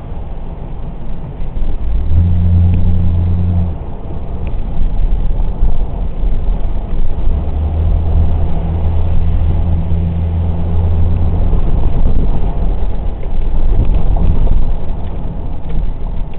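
Car engine and road noise while driving, with a steady low engine drone that comes up twice: briefly about two seconds in, and again for several seconds in the middle.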